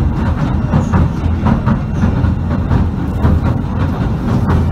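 Southend Pier train running along the pier, heard inside the carriage: a steady low rumble of the wheels on the rails with scattered faint clicks.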